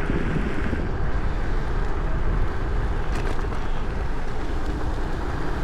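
Steady wind rushing over a chest-mounted action camera's microphone, with tyre and road rumble from an electric scooter riding along.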